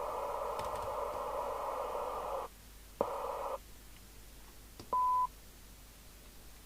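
Audio from an FM CB radio receiver under a sensitivity test with a signal-generator test signal. A rough, buzzing tone lasts about two and a half seconds and is followed by a brief second burst. A short, steady beep comes at about the five-second mark.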